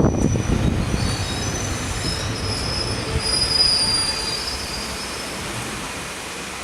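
Passenger train running, its steel wheels squealing against the rails in thin, high, wavering tones over a steady low rumble, the squeal dying away after about four seconds and the rumble fading gradually.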